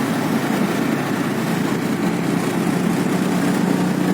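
Motorcycle engine running with a steady low drone.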